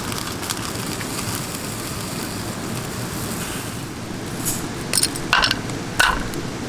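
Steady rain noise, with a few sharp cracks and clicks close together near the end.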